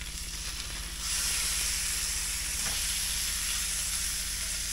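Chicken livers going into a hot stainless skillet of sautéed shallot, onion and garlic: the frying sizzle jumps louder about a second in and then holds steady as they are stirred with a wooden spatula.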